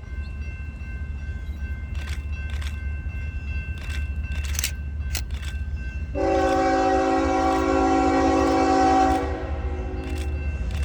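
Passing train rumbling steadily, with sharp clacks of wheels over rail joints, and a locomotive air horn sounding one long chord of several notes for about three seconds in the second half.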